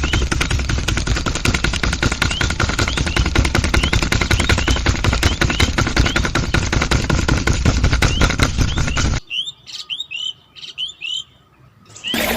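A machine clatters with very rapid clicks and a steady whine, then stops suddenly about nine seconds in. Birds chirp throughout, and are heard alone once the machine stops.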